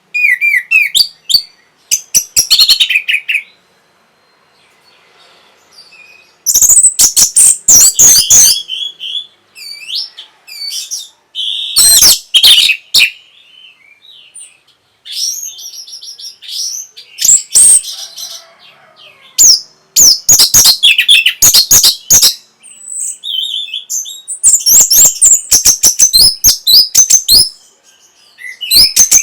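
Orange-headed thrush (punglor, anis merah) singing loud, rapid phrases of whistles and sharp clicking notes. Each phrase lasts one to three seconds, with pauses of a few seconds and a few fainter calls between them.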